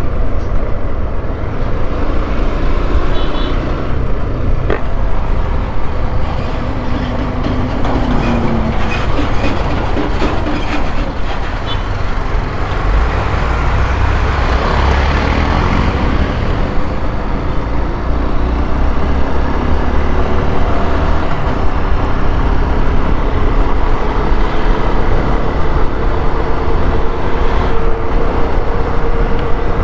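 Honda XRE 190's single-cylinder four-stroke engine running as the motorcycle rides through city traffic, its note rising and falling with throttle and gear changes over steady road and wind noise.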